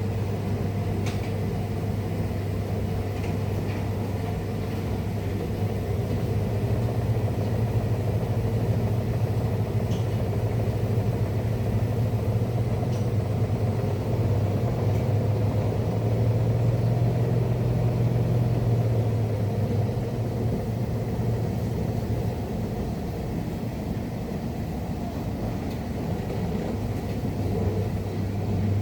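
Rex-Electrolux Jetsy Talkie RJ 7160 TA washing machine running mid-cycle: a steady low motor hum that grows a little louder in the middle, with a few faint clicks.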